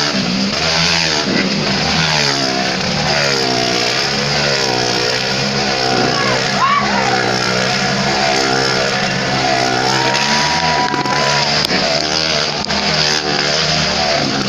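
Motorcycle engines revving during a stunt performance, their pitch rising and falling over and over.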